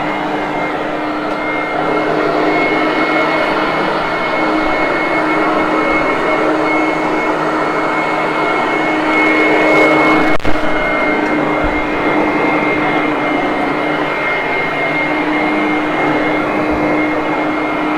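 Hoover Conquest commercial upright vacuum running steadily over carpet, its motor giving a steady whine. A single sharp knock about ten seconds in.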